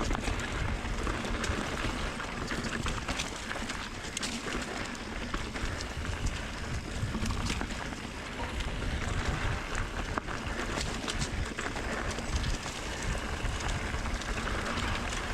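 Wind buffeting the camera microphone and tyres rolling over a dirt trail during a mountain bike descent, with scattered clicks and rattles from the bike over rough ground.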